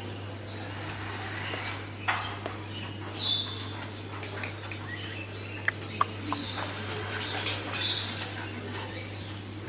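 Pet parrot making a few short, high chirps and squeaks, with several sharp clicks in a cluster about six seconds in, over a steady low hum.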